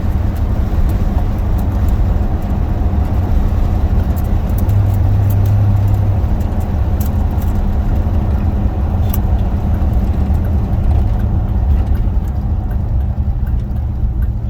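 Steady low rumble of a 1976 Oldsmobile Cutlass Salon's 455 Rocket V8 and its exhaust, mixed with road noise, heard from inside the cabin while cruising.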